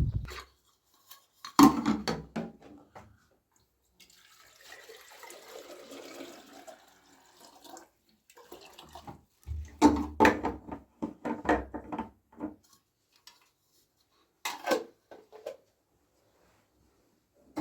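Water running or being poured for a few seconds, between bouts of knocking and clattering as objects are handled, like dishes and pots being moved.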